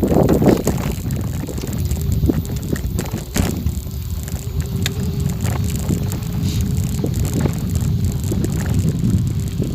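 Wind rumbling on the microphone while riding over a rough forest road, with scattered clicks and rattles. A faint steady hum sits underneath from about two seconds in until near the end.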